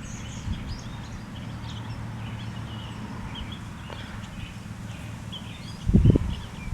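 Small birds chirping intermittently over a steady low wind rumble on the microphone, with a few loud low thumps about six seconds in.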